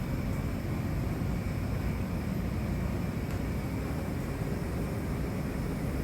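Ship's engine room machinery running: a steady low drone with a faint steady high whine above it.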